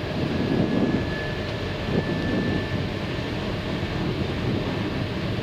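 Steady cockpit noise of an Airbus A319 on final approach with the landing gear down: airflow and engine rumble, with a faint thin whine for the first few seconds.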